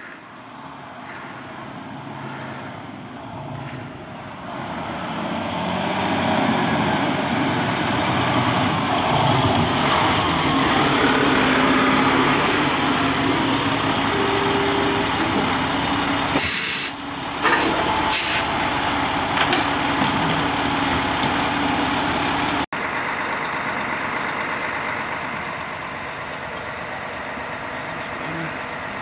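A fire engine's diesel engine grows louder as the truck pulls up. Its air brakes hiss in three short bursts about two-thirds of the way through, and the engine then runs steadily at idle.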